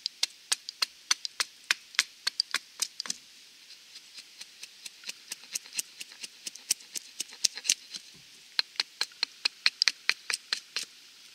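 Small Wetterlings Wildlife hatchet making quick, short carving strokes into a stick of wood braced against a log: a rapid run of sharp wooden taps, several a second, with a brief lull about three seconds in. The hatchet is roughing out a flat to give the stick a spoon shape.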